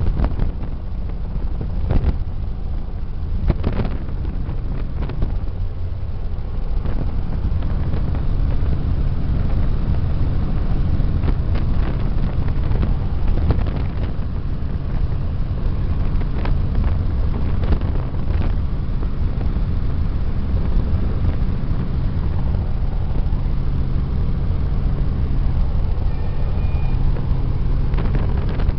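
Helicopter running steadily in flight: an even, loud rumble of rotor and engine with a constant low hum, broken by a few brief knocks in the first seconds.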